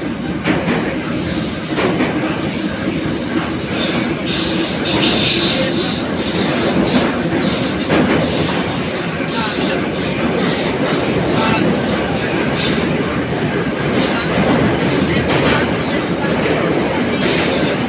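81-717 series metro car running at speed, heard from inside the car. There is a steady rumble of wheels on rail with knocks from the rail joints, and a high wheel squeal that comes and goes.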